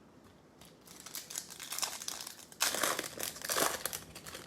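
Crinkling of a plastic foil trading-card pack wrapper as it is handled and torn open. It starts about a second in and is loudest in the second half.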